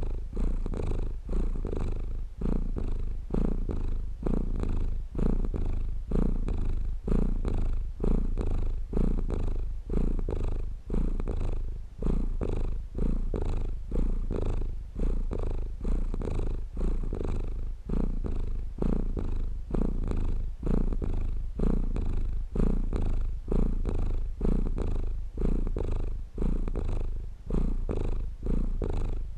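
Domestic cat purring close up, a steady low rumble that swells and fades in an even rhythm with each breath in and out.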